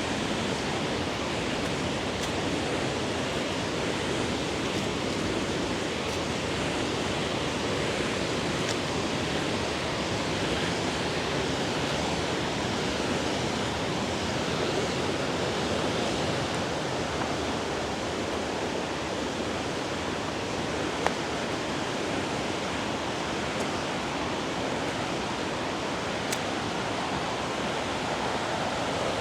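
Mountain river rushing steadily, with one brief click about 21 seconds in.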